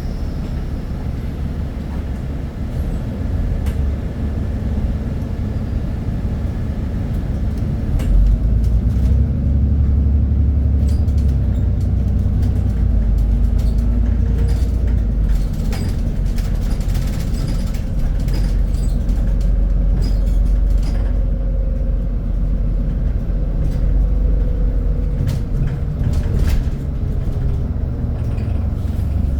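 Scania Citywide city bus's diesel engine running, a steady low rumble that grows louder about eight seconds in as it comes under load, with scattered light rattles.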